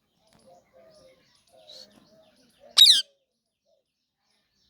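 Parrot giving one short, loud screech, falling in pitch, just under three seconds in, among faint chirps and soft low calls.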